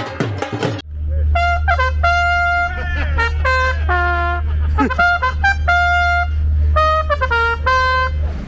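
A trumpet plays a slow melody of held notes that step up and down, over a steady low hum. It comes in under a second in, cutting off a drum-backed tune.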